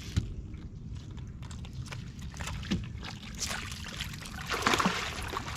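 Water splashing as a hooked channel catfish is reeled up to the boat, the splashing building over the last two seconds.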